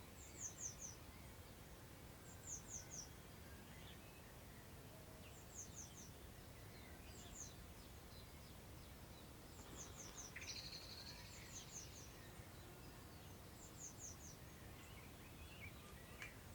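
Faint birdsong in the open air: a bird repeats short phrases of three or four quick, high, falling notes every second or two, and another bird calls briefly about ten seconds in. Under it runs a soft, low rumble of wind.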